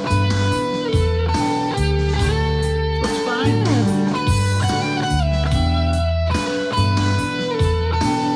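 Electric guitar played through a Boss GT-100 multi-effects floor pedal over a backing track with a rhythmic bass line: held lead notes, with one sliding steeply down a little over three seconds in.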